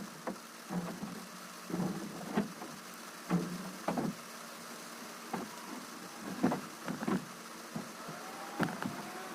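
Irregular knocks and thuds of junk and furniture being unloaded onto a concrete floor, over a steady hiss of rain.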